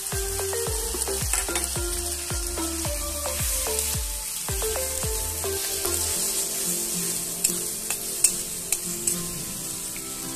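Diced potatoes and spice paste sizzling as they fry in oil in a metal kadai, stirred and scraped around with a metal spatula. A few sharp clicks of the spatula against the pan come about three quarters of the way through.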